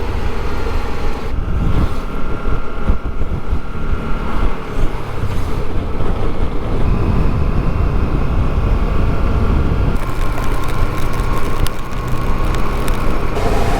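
Honda Deauville V-twin motorcycle riding along under steady engine and wind rumble, heard through wind buffeting on the bike-mounted microphone. A hiss of road and wind noise grows louder about ten seconds in.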